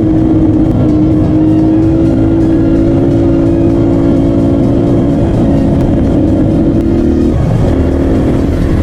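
Dirt bike engine running at a steady speed under way, with a constant low rumble; its pitch drops a step about seven seconds in.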